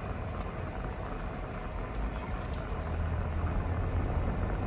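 Steady low rumble of a motor vehicle on the move, with even road and engine noise and no sudden events.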